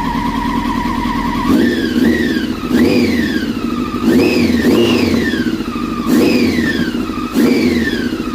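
Inline-four motorcycle engine idling steadily, then revved in quick throttle blips about once a second, each rising sharply and falling back toward idle.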